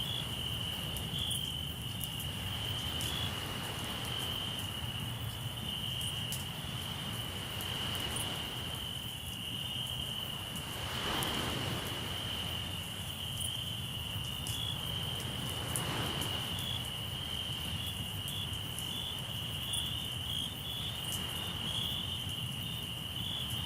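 Crickets trilling steadily in a continuous high pulsing chorus, over faint crackles from a campfire. A soft wash of sea waves swells up twice.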